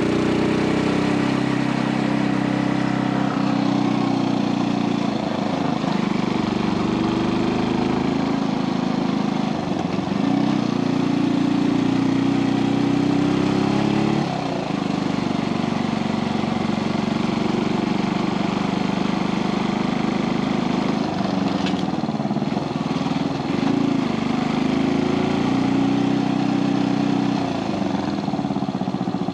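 Brixton Felsberg 250 motorcycle's single-cylinder engine running under way, its pitch climbing and dropping back several times through the gear changes.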